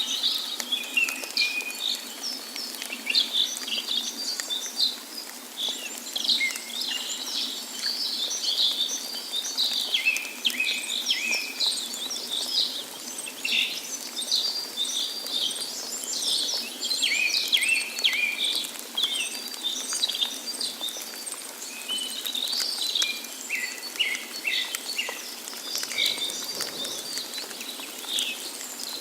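Many birds chirping and singing at once in a dense chorus of short calls and trills, over a steady hiss of running water.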